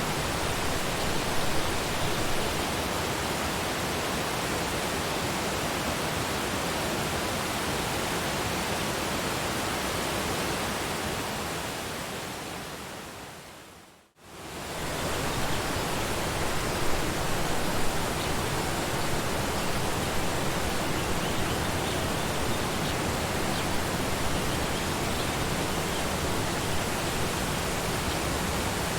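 Steady rushing of a waterfall. About halfway through it fades away to near silence, then swells quickly back to full.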